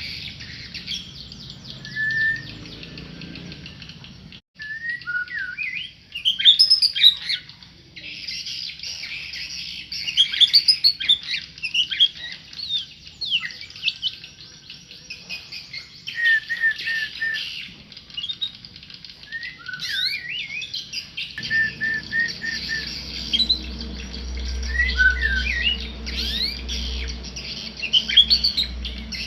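A tame murai songbird singing: phrases of clear whistles, chirps and quick rising and falling notes, coming in bursts with short pauses between them.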